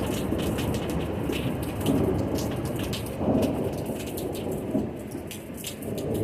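Thunderstorm: rain falling steadily with many small drop impacts, under rolling thunder that swells a couple of times.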